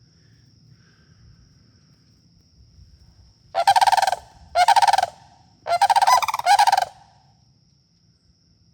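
Sandhill cranes giving four loud rolling, rattling calls in quick succession, about half a second each, in the middle of the stretch. They are agitated birds in the midst of a fight, which the hiker later thinks may be over a chick nearby.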